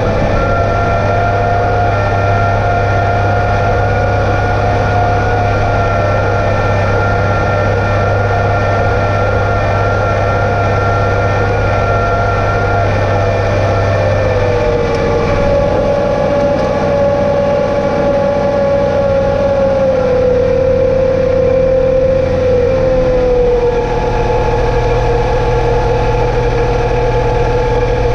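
John Deere 2032R compact tractor's three-cylinder diesel engine running steadily under way, with a droning whine. Its pitch settles a little lower about halfway through and again a few seconds later.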